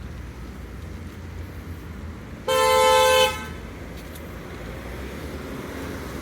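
A car horn gives one short honk, under a second long, about two and a half seconds in, over a low steady rumble of traffic.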